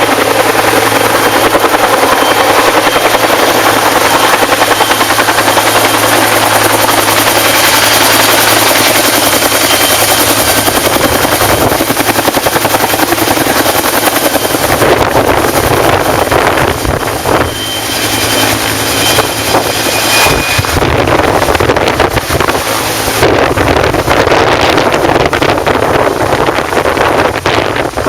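Firefighting helicopter hovering low during a water pickup: steady rotor chop and turbine noise, with rotor wash buffeting the microphone. From about halfway the sound turns uneven and gusty.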